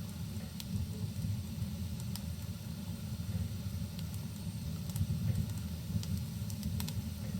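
Fireplace fire crackling, with irregular sharp pops and snaps over a steady low rumble, mixed with the even hiss of rain.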